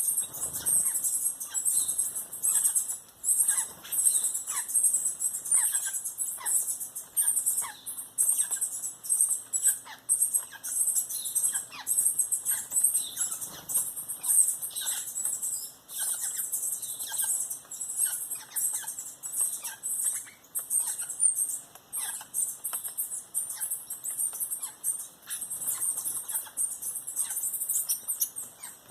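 Birds calling at a forest bird feeder: a dense, unbroken high chatter, with many short, quick falling notes scattered below it.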